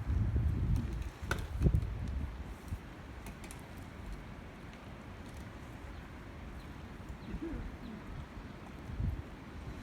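Wind buffeting the microphone for the first couple of seconds, with two light knocks, then a quieter steady outdoor background in which a dove coos faintly a few times near the end.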